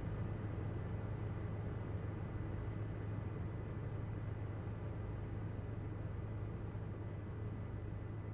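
Helicopter cabin interior: the steady drone of engine and rotor heard from inside, an even low hum with a hiss of noise over it, unchanging throughout.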